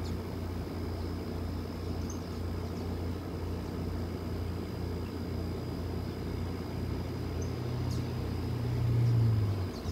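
Low steady rumble that grows louder from about seven seconds in, peaks near the end, then cuts off, with a faint steady high whine throughout.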